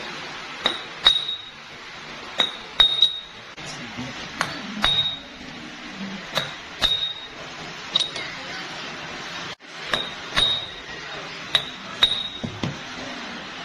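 Metal parts clinking against one another: sharp, ringing clinks, often in pairs, about one a second, over a steady background noise.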